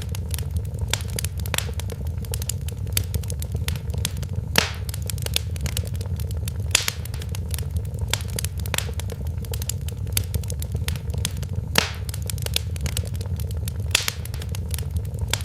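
Fire crackling in a fireplace: a dense run of small crackles and snaps over a steady low rumble, with a few louder pops every two to five seconds.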